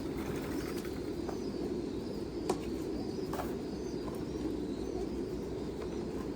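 Many pigeons cooing together in a continuous low murmur, with faint high chirps and a few short clicks, one sharp click about two and a half seconds in.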